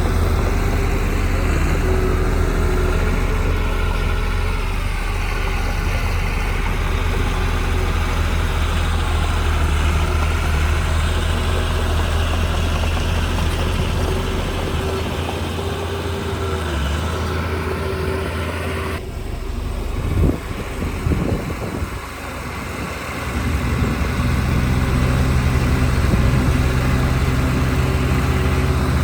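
Diesel engine of heavy earthmoving equipment running steadily. About two-thirds of the way through, the sound changes abruptly and there are several loud knocks before the engine sound resumes.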